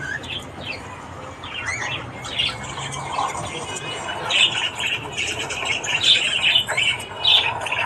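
Several budgerigars chirping and warbling in quick, overlapping calls with sharper squawks, getting busier and louder about halfway through.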